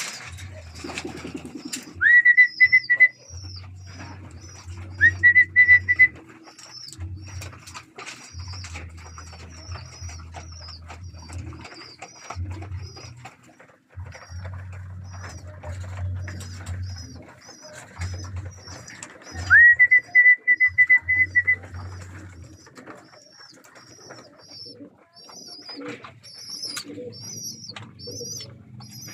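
Pigeons cooing in the loft, with some wing flapping. Three loud, shrill whistled trills, each rising and then held, stand out: one about two seconds in, one about five seconds in, and one near twenty seconds. Towards the end, small high chirps repeat quickly.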